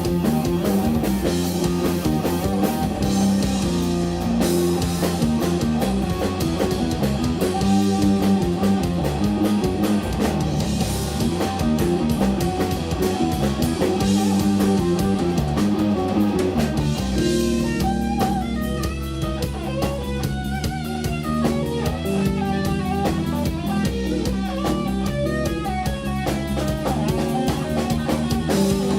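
Live instrumental rock-fusion trio playing: electric guitar, bass and drum kit together at a steady level. About two-thirds of the way through, the playing thins out to clearer single guitar notes over bass and drums.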